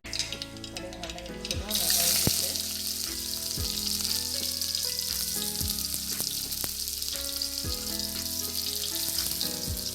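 Hot oil sizzling in a pan as the tempering for a carrot stir-fry goes in. The sizzle starts suddenly about two seconds in and then runs steadily. Soft background music plays under it.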